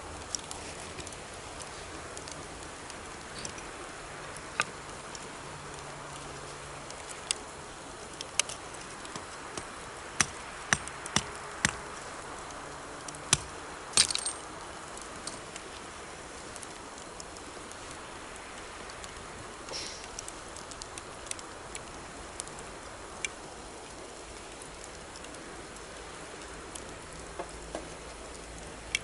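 Campfire wood crackling with scattered sharp pops, thickest and loudest about halfway through, over the steady rush of a river.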